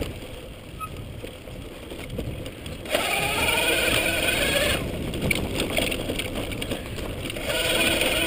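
Electric mountain bike ridden on a dirt trail: a low rumble of tyres and wind, with the electric motor's wavering whine coming in about three seconds in and again near the end.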